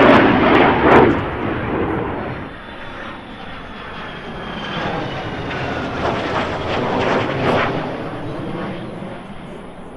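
Jet aircraft flying past, loudest in the first second, then fading and swelling again a few seconds later. A faint high whine slides slowly down in pitch as it passes.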